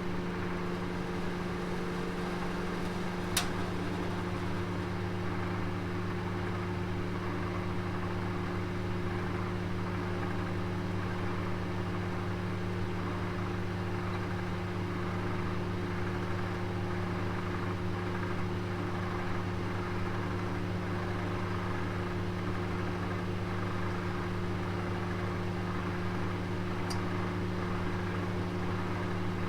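Oven running with a steady, even hum, with a sharp click about three seconds in and a fainter click near the end.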